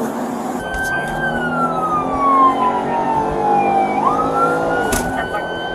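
Emergency vehicle siren wailing: a high tone that falls slowly in pitch for about three seconds, then sweeps quickly back up and holds high.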